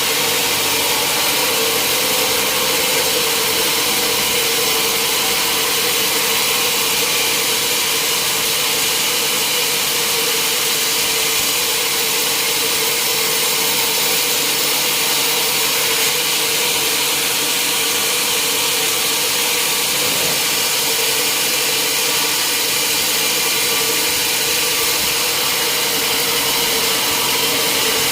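Sawmill machinery running steadily: a continuous loud machine noise with a steady hum and a high hiss, with no change in pitch or level.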